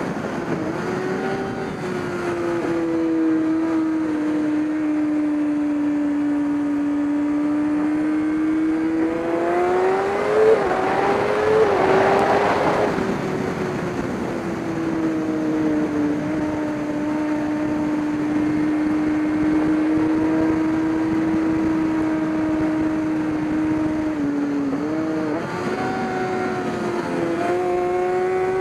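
Race car engine running under a driver's control, at a steady loudness. Its note falls, then climbs under acceleration. A brief rushing noise comes about twelve seconds in. The note then holds steady for several seconds, dips briefly near the end and rises again.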